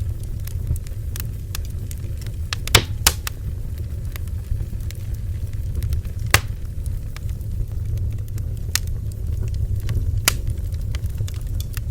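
Wood fire crackling: scattered small snaps and a few sharp pops over a steady low rumble.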